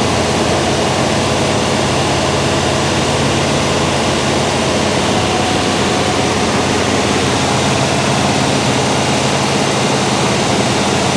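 Freshly rebuilt 1967 Chevelle SS 396 big-block V8 running steadily and loud on its first start in about 30 years.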